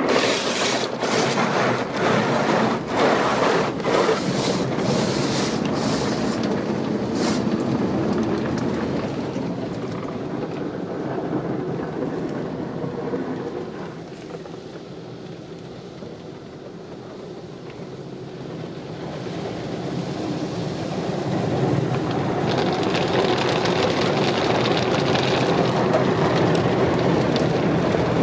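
Automatic car wash equipment working over a car, heard from inside it: a steady rush of water and machinery, with regular strikes about once a second in the first several seconds. The rush fades quieter midway, then builds back up.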